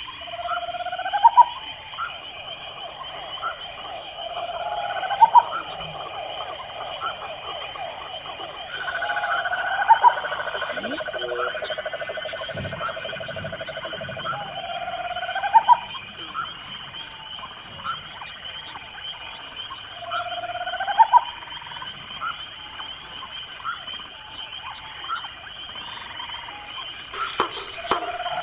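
Night chorus: crickets keep up a continuous high-pitched trill while frogs give repeated low trilled calls, each a second to several seconds long and rising at the ends, with two frogs overlapping for several seconds near the middle.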